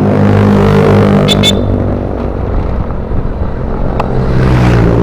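Motorcycle engine running on the road with wind rush, swelling louder near the start and again near the end. Two quick high chirps come about a second and a half in.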